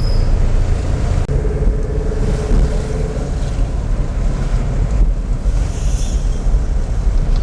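Road and wind noise of a moving car heard from inside, a steady low rumble with wind buffeting the microphone.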